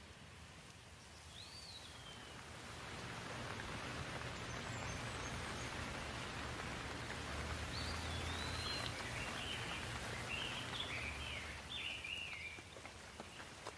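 Rain falling, with a rush that builds over the first few seconds and eases near the end. Birds chirp over it, once early and in a quick run of calls in the middle.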